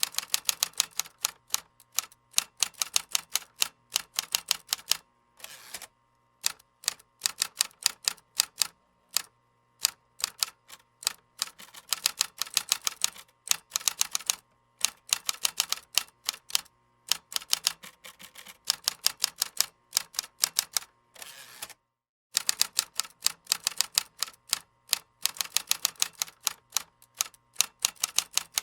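Computer keyboard typing: fast runs of key clicks broken by short pauses, with a brief softer noise about five seconds in and another about twenty-one seconds in.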